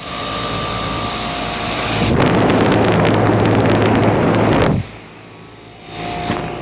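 Goodman central air conditioner condensing unit running, a steady low hum of compressor and condenser fan under a rush of air. From about two seconds in, a much louder rush of air buffets the microphone for about two and a half seconds, then cuts off suddenly.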